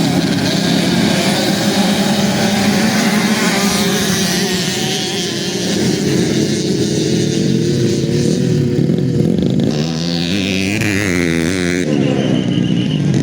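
Several 65cc two-stroke motocross bikes racing, their engines revving and accelerating with pitch rising and falling as the throttle opens and shuts. In the last few seconds several bikes overlap with quick up-and-down revs.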